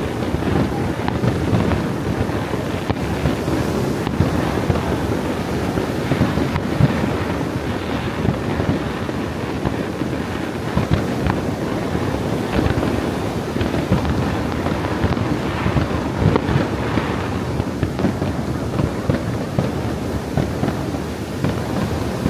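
Fireworks display going off: an irregular run of bursts and crackles throughout, with wind rumbling on the microphone.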